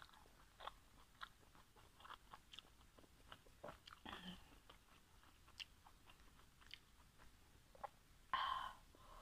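Soft, wet chewing of a steamed pork momo, with many small mouth clicks throughout. A brief louder wet sound comes near the end.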